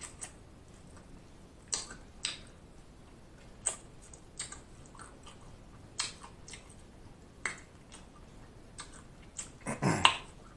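Close-miked eating sounds: short, separate wet clicks and lip smacks, roughly one a second, as chicken wing meat is chewed and sucked off the bone, with a louder mouth sound near the end.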